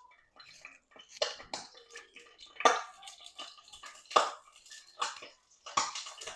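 Kitchen cookware and utensils knocking and clinking, about half a dozen sharp, separate clatters spread over a few seconds.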